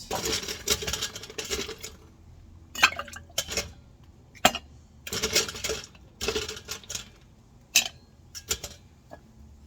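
Ice cubes dropped into a mixing glass: a dense rattle of ice for the first couple of seconds, then a run of separate clinks and short clatters as more cubes go in and settle against the glass.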